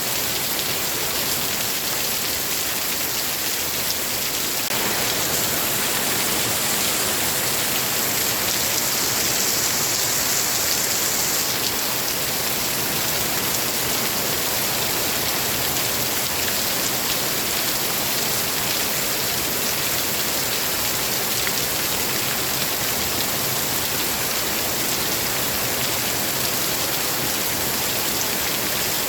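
Steady heavy rain: a dense, even hiss of falling water that grows slightly fuller about five seconds in.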